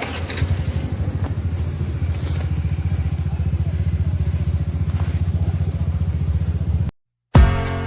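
A small motorcycle-type engine running nearby with a steady, rapid low throb, cut off abruptly near the end, after which music starts.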